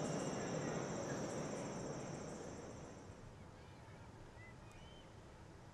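Crickets trilling high and steadily over a soft background hiss, both fading away over the first three seconds; a few faint short chirps come near the end.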